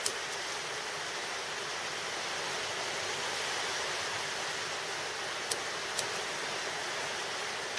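Steady rain, an even hiss, with a few sharp clicks, one at the start and two close together near the end.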